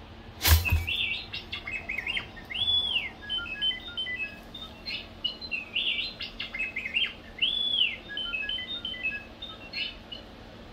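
A sharp click as the toaster's lever is pushed down, then the R2-D2 toaster's electronic R2-D2 sounds: chirping beeps in quick steps and rising-and-falling whistles, a sequence that plays through twice.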